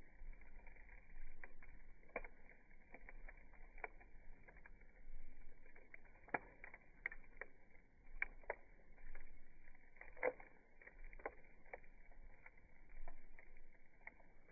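Wood fire crackling: irregular sharp snaps and pops over a faint low rumble.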